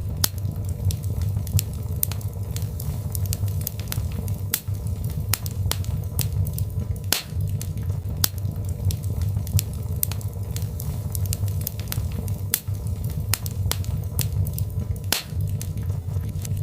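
Birchwood fire crackling: sharp pops several times a second over a steady low rumble of the burning logs, with two louder pops, about seven seconds in and near the end.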